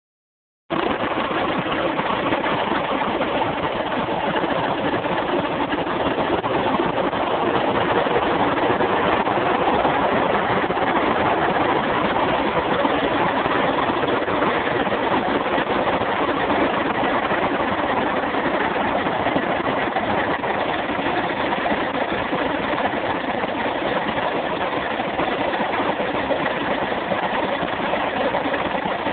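Audi A4 1.9 TDI (AVF) four-cylinder turbodiesel idling steadily, partly warmed up with coolant around 60 °C. Its viscous fan coupling is still disengaged at this temperature, which is normal operation.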